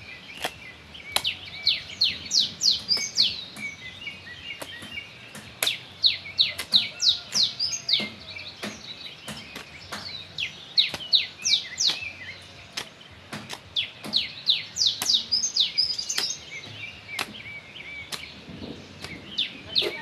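Birds singing in quick, high chirping phrases a few seconds long, repeated with short gaps, over scattered sharp clicks or knocks.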